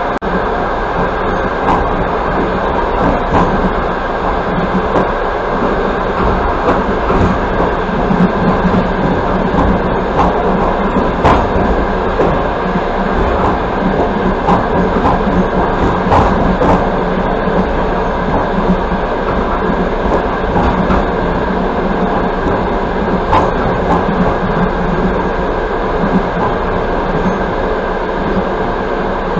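Express passenger train running at speed, heard from inside the coach: a steady rumble of wheels on the rails with a few sharp, irregular clicks.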